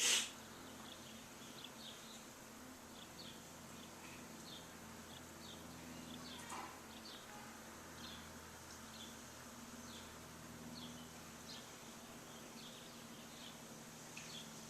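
Small birds chirping: short high chirps repeated about once a second over a faint steady low hum. A brief loud noise right at the start.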